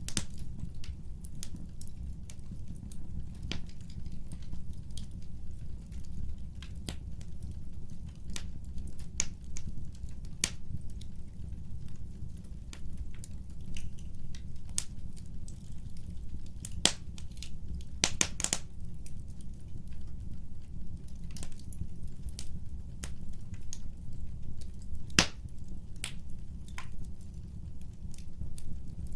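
Wood fire burning, with irregular sharp crackles and pops of the burning wood over a steady low rumble. There is a quick run of pops a little past halfway and one louder snap near the end.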